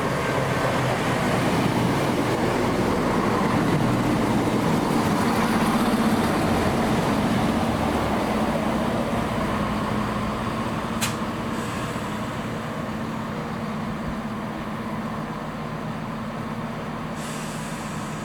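A train running through the station, growing louder to a peak about five seconds in and then slowly fading away, with a steady low hum under the running noise. A single sharp click sounds about eleven seconds in.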